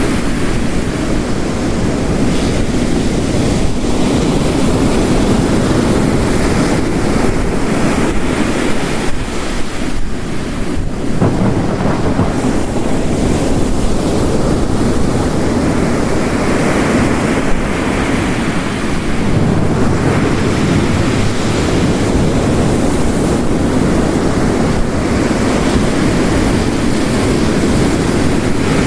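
Ocean waves crashing on a coast, mixed with heavy rain: a continuous deep roar of surf that swells and ebbs, with a fresh surge of breaking water about eleven seconds in and again near twenty seconds.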